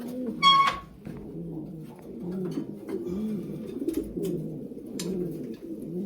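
Racing pigeons cooing over and over in a small loft, with scattered light clicks. About half a second in comes a brief, loud, high-pitched squeak.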